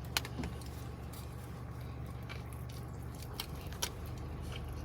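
A person chewing a bite of a breaded chicken sandwich: a few short crunches and mouth clicks over a low steady hum.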